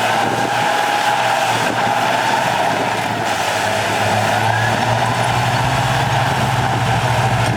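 Heavy earthmoving machine's diesel engine running steadily under work, with a high whine that rises slowly in pitch; the low engine hum grows stronger about halfway through.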